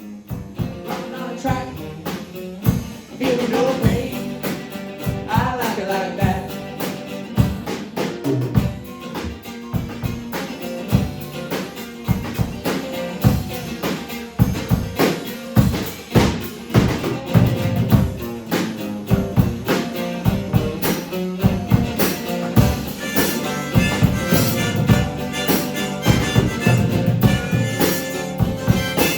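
A band playing an instrumental section of an upbeat song, with a steady drum-kit beat under sustained instrument tones.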